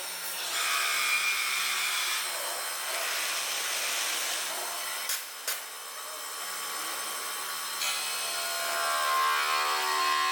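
A CNC stone-working machine machining a stone slab: a steady grinding, hissing cutting noise with whining tones. Two short sharp clicks come about halfway through, and the whine shifts to lower tones near the end.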